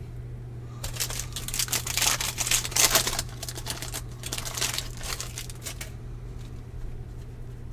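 Crinkling and tearing of a foil trading-card pack wrapper being opened, in two rustling spells, the first and louder one about a second in and the second a little after the middle.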